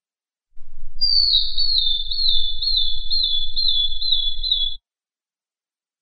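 Long-tailed broadbill calling: a run of about eight high, repeated whistled notes, each sliding down and the series drifting slightly lower in pitch, lasting about four seconds. A faint low hum lies beneath it.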